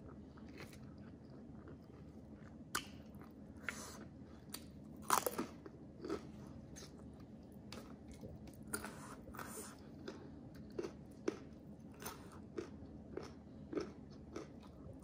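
A person chewing and crunching food with irregular crisp bites and wet mouth sounds. The loudest bite comes a little after five seconds in.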